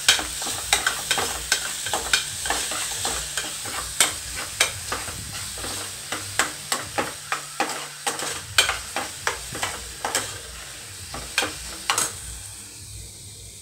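Onions, ginger and garlic sizzling in hot oil in a pressure cooker while a steel ladle stirs them, clinking and scraping against the pot many times at an uneven pace. The stirring stops about a second before the end, leaving a fainter sizzle.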